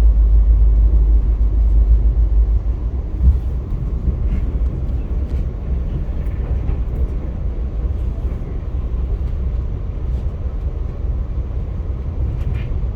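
Via Rail passenger train in motion: a steady low rumble, louder for the first few seconds and then a little softer, with a single knock about three seconds in.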